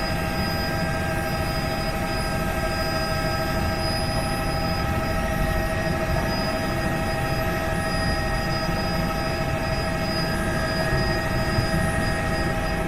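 Helicopter running steadily: a constant rotor and engine drone with several steady whining tones over it.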